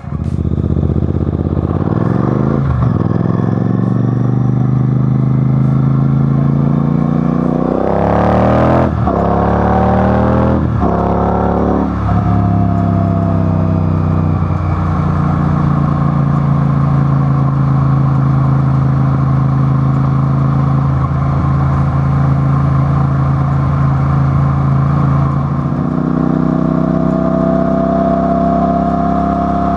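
A vehicle engine pulling hard and climbing in pitch, dropping sharply with several quick gear changes, then running at a steady speed, with a thin whine over the engine note near the end.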